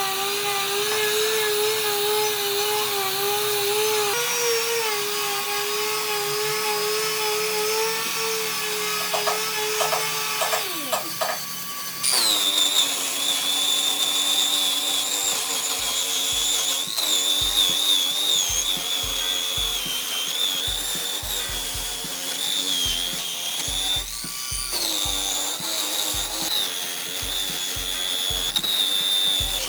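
Electric power tools working wood: a motor whine wavering in pitch as it is loaded, giving way about twelve seconds in to a different, higher-pitched whine, with scattered low thumps in the second half.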